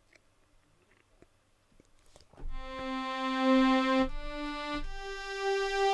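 Sampled synthesizer patch played from a Kontakt library: after a couple of seconds of faint clicks, three held notes, each a step higher than the last, with a bright, steady tone.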